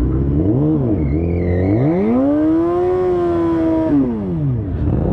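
Sport motorcycle engine: a short blip of the throttle, then a strong rev climbing to a high, held pitch for about a second and a half before the revs fall away near the end.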